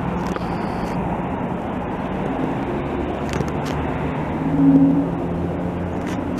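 Steady road traffic noise, with one vehicle passing louder about four and a half seconds in.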